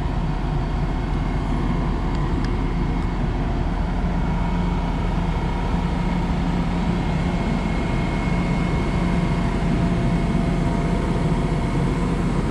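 Steady low mechanical hum of a standing passenger train's idling machinery, with a few faint steady whining tones above it.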